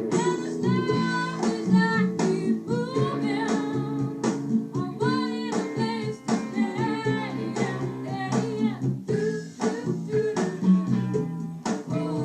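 A song sung with acoustic guitar accompaniment: steadily strummed chords under a sung melody held with vibrato.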